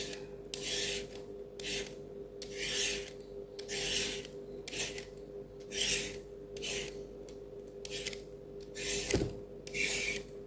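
A blade scraping the skin off a lotus root in short repeated strokes, about one a second.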